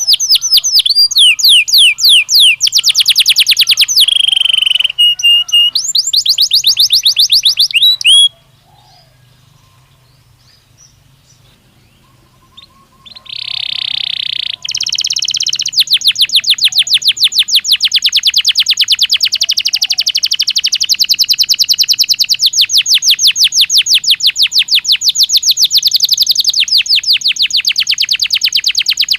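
Belgian canary singing in fast, rolling trills of rapid repeated high notes. It breaks off for about four seconds about a third of the way in, then comes back with a held note and one long, continuous trill.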